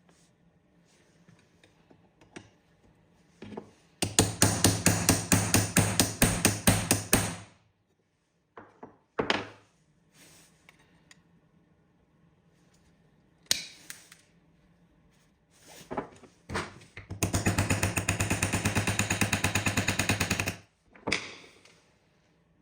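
Two bursts of rapid, evenly spaced knocking from a tool, each lasting about three seconds, with a few single knocks between them.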